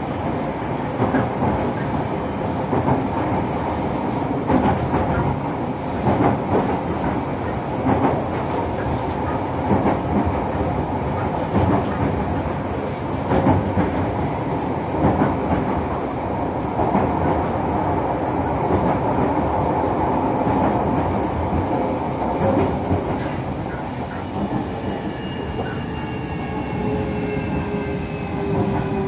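Running noise inside the motor car of a JR Kyushu 305 series electric train at speed: a steady rumble of wheels on rail with scattered rail-joint clicks. Near the end the VVVF inverter comes in as several thin tones that slowly fall in pitch as the train slows.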